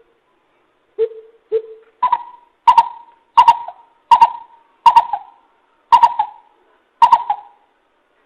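Greater coucal calling: a series of nine hoots about two-thirds of a second apart, the first two low and the rest about an octave higher.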